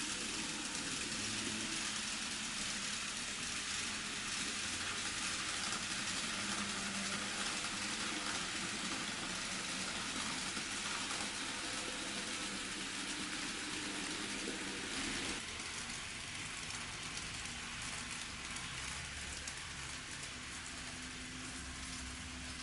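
N scale model train running on track: a steady hiss of small metal wheels on the rails with a faint low motor hum, easing a little about two-thirds of the way through.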